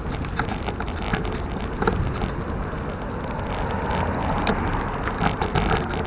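Forward mountain bike being ridden over rough ground: a steady rumble with frequent sharp rattles and knocks from the bike, and wind on the microphone.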